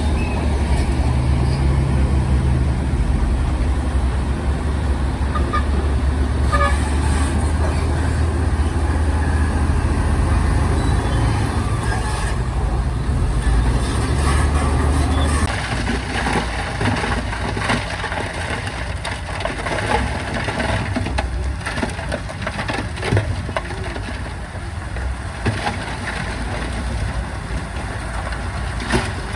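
Diesel engines of heavy earthmoving machinery running with a steady low drone that drops off about halfway through, after which scattered knocks and clanks come through.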